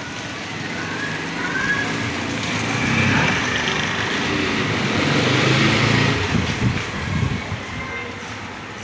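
A small-engined vehicle passing by, its engine and road noise building to a peak past the middle and then fading away.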